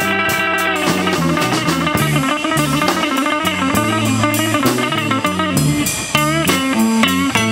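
Electric blues band playing an instrumental passage: a lead electric guitar with bent notes over bass guitar and a drum kit keeping time on the cymbals.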